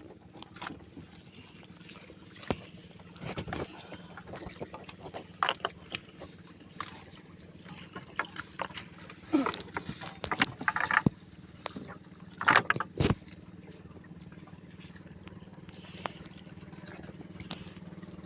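A small fishing boat's engine runs with a steady low hum. Scattered knocks and splashes of water come over it, the loudest a little past halfway.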